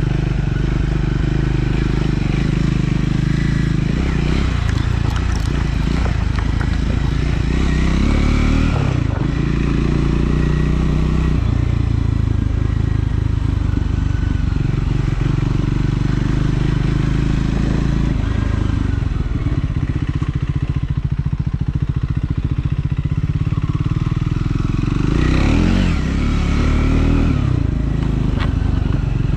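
Triumph Scrambler 400 X's single-cylinder engine running under way while being ridden, its revs changing several times as the rider shifts and rolls the throttle on and off, with a rise and fall in pitch near the end.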